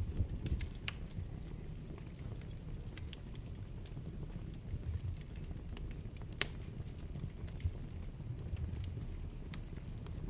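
Wood fire burning in a fireplace: a low steady rumble of flames with scattered crackles and pops, the sharpest pop a little past the middle.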